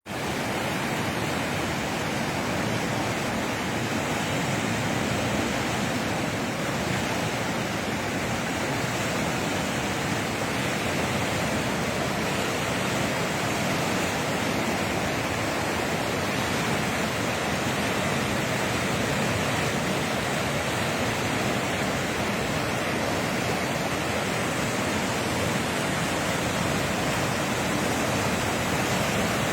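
Heavy rain and running water: a steady, dense rushing that does not change.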